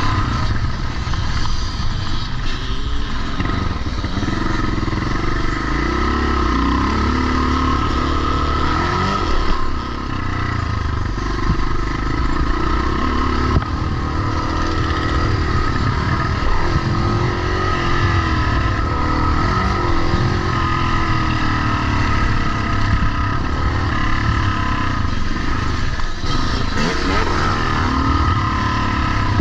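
Vintage pre-1990 motocross bikes riding round a dirt track, several engines revving up and down as they accelerate and shift.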